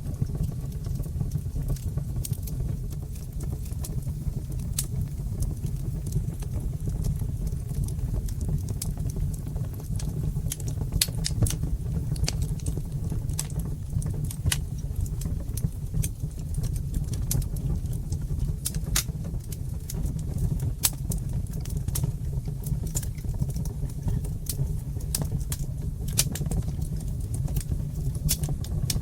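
Wood fire crackling in a fireplace: frequent sharp pops and crackles, unevenly spaced, over a steady low rumble of the flames.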